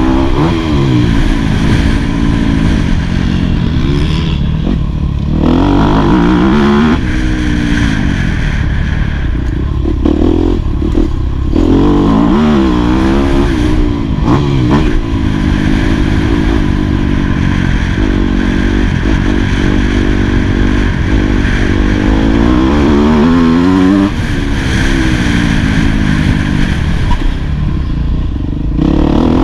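Yamaha YZ250F four-stroke single-cylinder motocross engine being ridden hard, its pitch repeatedly climbing under throttle and dropping as it comes off the throttle or changes gear.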